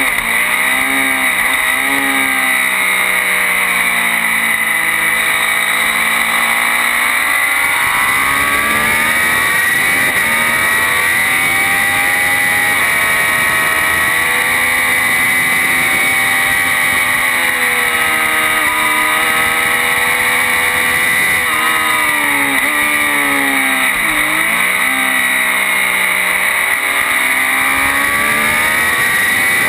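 Triumph Daytona 675's three-cylinder engine at full effort on a track lap, revs climbing and falling with the gear changes, dipping sharply and climbing again about 24 seconds in. Steady wind rush runs under it.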